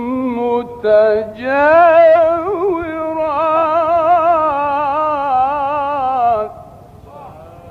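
A man chanting the Quran in the ornamented Egyptian mujawwad style, drawing out one long melodic phrase with wavering turns and short breaks about a second in. The voice stops about six and a half seconds in, leaving only faint hall sound.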